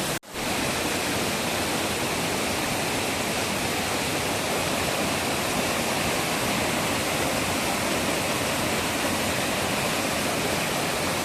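Steady rushing of a river waterfall, cascading water, broken by a brief dropout about a quarter second in.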